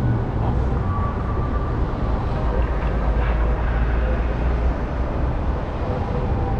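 A train's steady low rumble, with a few faint thin tones above it.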